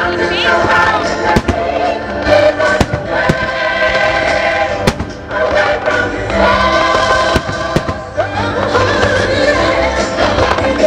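Fireworks bursting, a string of sharp bangs and crackles over loud musical-theatre music with a choir singing, played over loudspeakers for a music-synchronised fireworks show.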